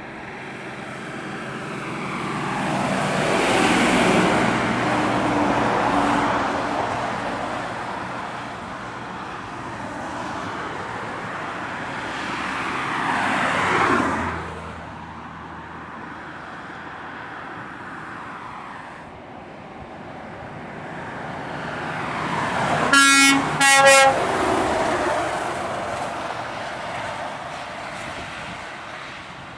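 Heavy trucks labouring up a steep grade under load, passing one after another, the engine and tyre noise swelling and then dropping away as each goes by. Near the end of the passing, two short horn toots, the loudest sounds here.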